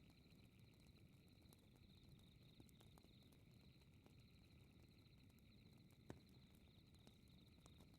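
Faint night ambience: crickets chirping in a steady rapid pulse over a low rumble, with the scattered light crackle of a wood fire and one sharper pop about six seconds in.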